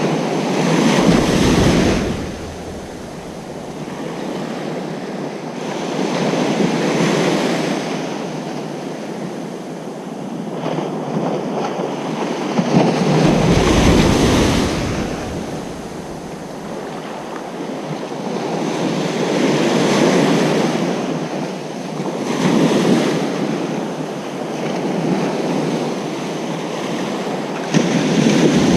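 Ocean surf on a beach: waves breaking and washing in one after another, the sound swelling and falling back every several seconds.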